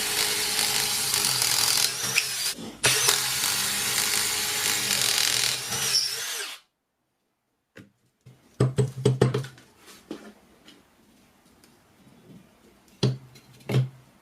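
Milwaukee cordless power screwdriver motor running steadily with a low hum for about six and a half seconds, with one brief break, then two short bursts of running later on.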